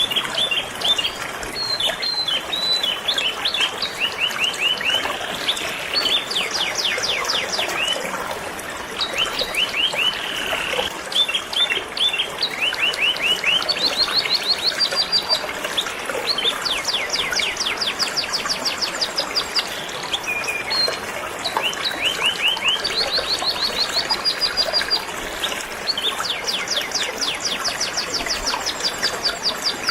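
Canary singing in fast trills of rapidly repeated notes, one trill run after another, over the steady rush of flowing river water.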